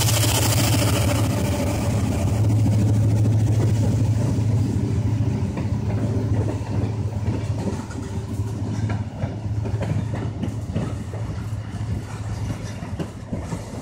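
Freight train passing: the Norfolk Southern diesel locomotives' steady low engine drone fades over the first several seconds. Tank cars and boxcars then roll by, their wheels clacking and knocking over the rail joints.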